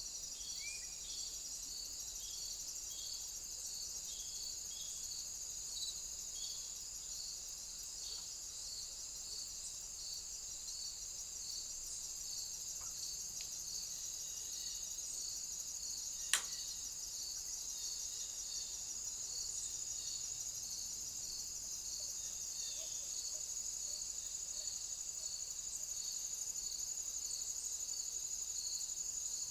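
Insects, crickets, chirring steadily at a high pitch, with a second call of evenly repeated chirps about twice a second. A single sharp click about halfway through.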